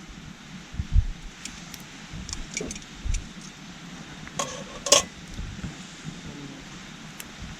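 Scrap-wood campfire burning with a few sharp pops and clicks, the strongest two about four and a half and five seconds in, over the steady rush of a small stream. A few low thumps come near the start.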